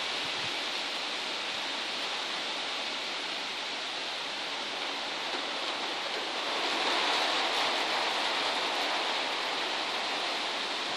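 Steady rain falling, an even hiss that swells a little louder about seven seconds in.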